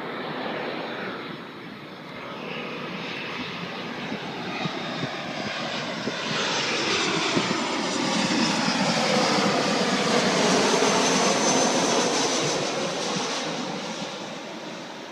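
Jet airliner on approach passing low overhead. Its engine noise swells to a peak about two-thirds of the way through, with a sweeping, phasing whoosh, then eases off.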